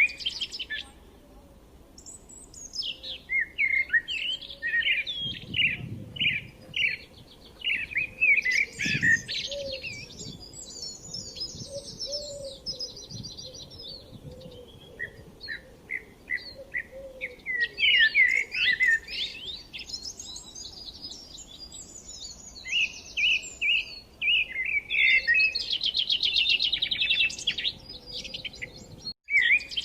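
A songbird singing: long, varied phrases of quick chirps, whistled notes and fast trills, separated by short pauses.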